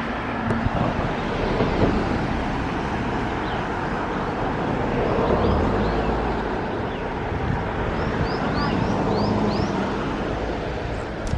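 A steady outdoor rumble, with a small bird's short rising chirps repeating in the second half.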